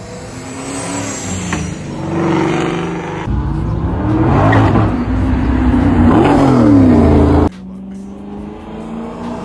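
Car engines revving and accelerating, the pitch rising and falling, loudest in the middle stretch; the sound changes abruptly twice, as if cut between clips.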